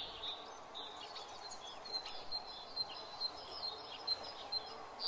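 Small birds chirping, many short high-pitched calls in quick succession, over a faint steady outdoor background.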